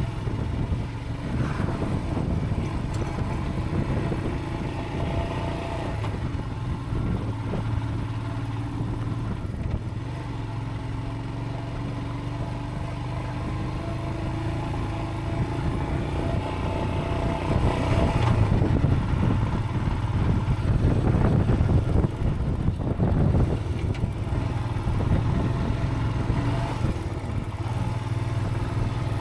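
Motorcycle engine running at a slowly changing pitch while riding over a rough gravel track, with knocks and rattles from the bumpy ground that come thicker a little past the middle.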